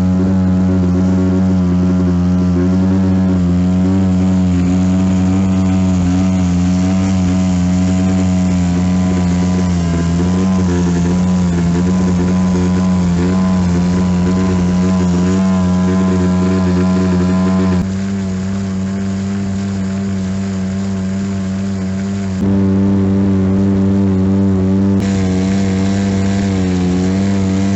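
Small boat's outboard motor running steadily under way, an even drone with a slight waver in pitch. The level steps abruptly a few times, about two-thirds of the way through and again near the end.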